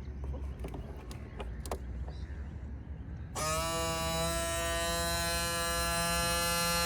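Small electric motor on an RC fire boat switching on about halfway through, spinning up quickly and then running with a steady high whine. Before it starts there are a low hum and a few light clicks. This is the run test of the freshly primed cooling system.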